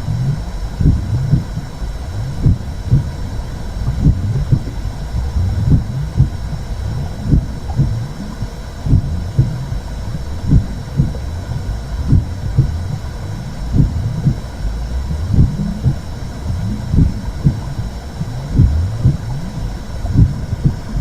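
Womb sound for soothing a baby: a low, muffled whooshing rumble with soft, uneven heartbeat-like pulses, about one to two a second.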